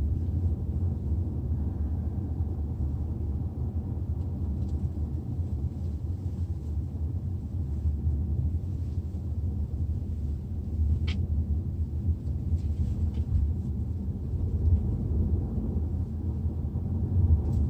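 Steady low road and engine rumble inside the cabin of a Hyundai Tucson (NX4) while driving, with a brief sharp click about eleven seconds in and another near the end.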